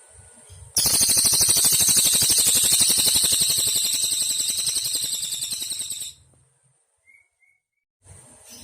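Cililin bird singing one long, very fast, high-pitched trill lasting about five seconds, fading a little toward its end before it cuts off. A faint steady high hiss lies under the quiet stretches before and after, with a couple of seconds of complete silence following the song.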